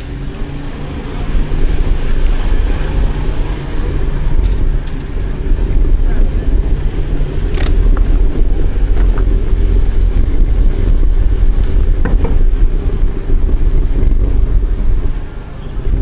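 Outdoor city ambience: a steady low rumble of traffic, with wind buffeting the microphone.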